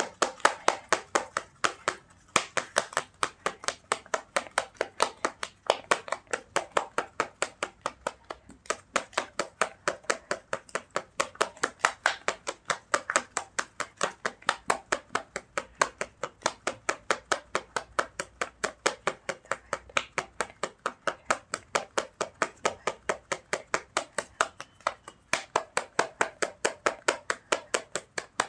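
Tarot cards shuffled by hand: a steady run of quick slapping taps, several a second, with short breaks near 2 s, 8 s and 25 s.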